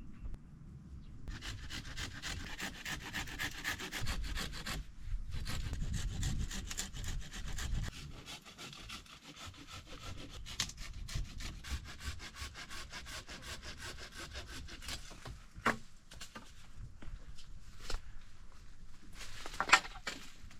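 Wood being worked by hand with a saw-like tool in rapid back-and-forth rasping strokes. There is a short break about five seconds in. A couple of sharp knocks or cracks come near the end.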